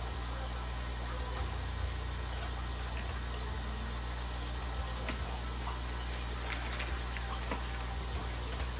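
Small electric motor of a model vehicle running steadily on powered track, a constant whir over a low hum, with occasional light clicks.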